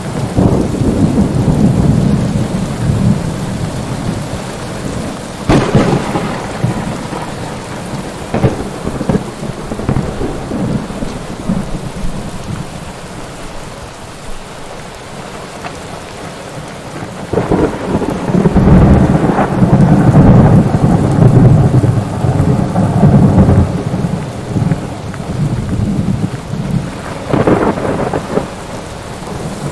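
Thunderstorm: steady rain with rolling thunder. A long, heavy rumble comes in the middle, and sharp cracks come about five seconds in and again near the end.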